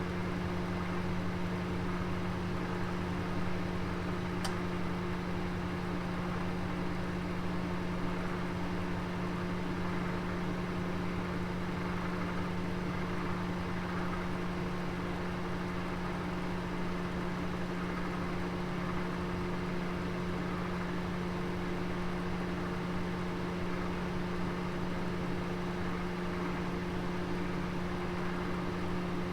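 Oven running with a roast inside: a steady low hum from its fan and motor with a faint hiss over it, and one faint tick about four seconds in.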